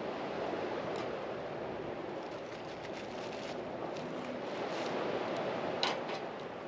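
Steady rushing noise, with one sharp click about six seconds in.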